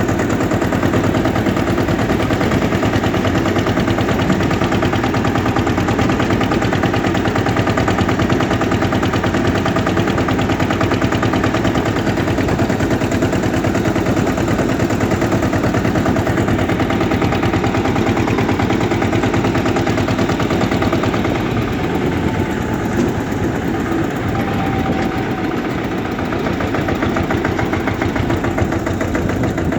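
Eicher tractor's diesel engine running steadily with a rapid, even exhaust beat. It drops slightly in level about two-thirds of the way through.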